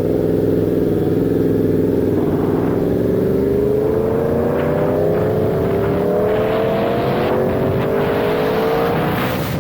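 Sportbike engine pulling hard, its pitch rising slowly and steadily for several seconds as the motorcycle accelerates.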